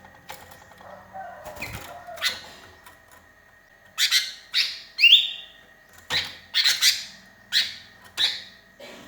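Sooty-headed bulbul (kutilang) calling. A few faint notes give way, about four seconds in, to a run of short, loud, sharp notes at about two a second, one of them a rising note.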